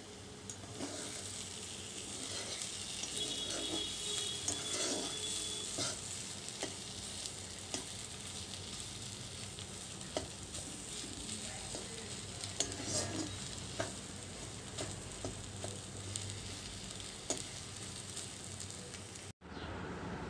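Green spice paste sizzling in a black iron wok (kadai) while a metal spatula stirs and scrapes it, with scattered clicks and scrapes of the spatula on the pan. The sound breaks off suddenly near the end.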